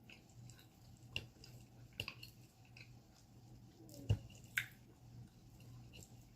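Close-miked eating sounds: soft, wet chewing and mouth noises, with a few sharp clicks and taps, the loudest about four seconds in. A faint steady low hum runs underneath.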